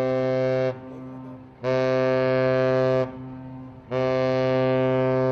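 Ship's horn sounding short, steady blasts on one deep note, each about a second and a half long: the end of one blast, then two more in full, with a fainter trace of the same note lingering between them.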